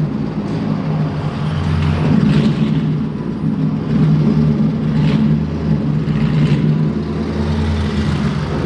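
Straight-piped Aston Martin Vantage exhaust at speed on the highway: a loud, steady engine note that swells briefly a few times as the throttle changes.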